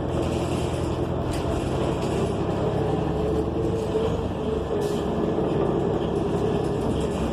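Inside a 2015 New Flyer XN40 transit bus under way: steady rumble of its Cummins Westport ISL G natural-gas engine and road noise, with a faint wavering whine. A couple of brief clicks or rattles.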